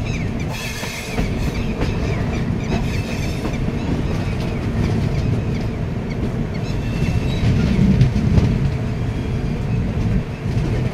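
Passenger train running along the rails, heard from an open coach doorway: a steady, loud rumble of wheels on track with clickety-clack from the rail joints. A high wheel squeal wavers over it in the first couple of seconds.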